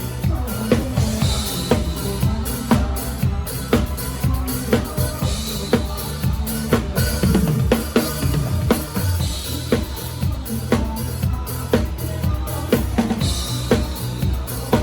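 Live drum kit played close up: a steady kick and snare groove with rimshots, and a cymbal crash about every four seconds, over the band's bass.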